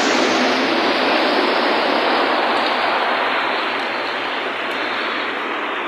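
Steady rushing of water on a flooded road in heavy rain. The sound grows slowly duller toward the end.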